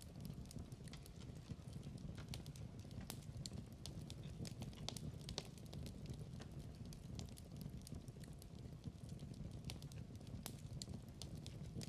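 Wood fire burning in a fireplace: a low steady rumble of flame with irregular sharp crackles and pops.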